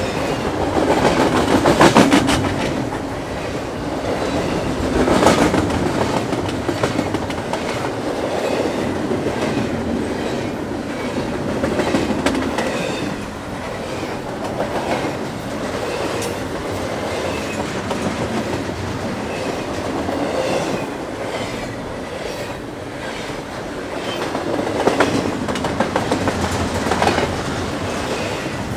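Railroad train cars rolling past, their wheels clacking steadily over the rail joints, with a few louder swells of clatter.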